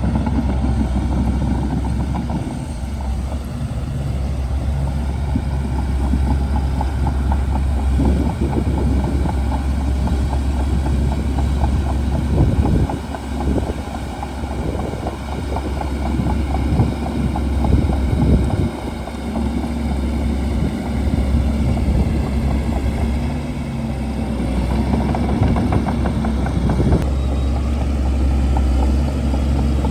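Shantui DH17C2 bulldozer's diesel engine running steadily with a low drone, with clattering and a few brief dips in level around the middle.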